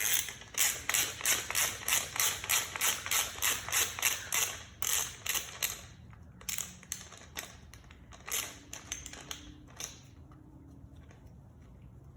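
Hand socket ratchet clicking fast and evenly, about four clicks a second, as it loosens an 8 mm bolt. About halfway through the clicks slow and thin out, then stop.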